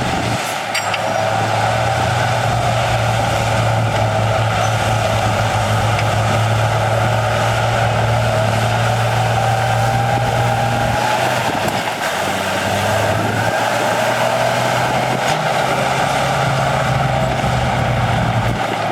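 Heavy earthmoving machine's diesel engine running steadily under work. Its low note drops away briefly about eleven seconds in, then picks back up.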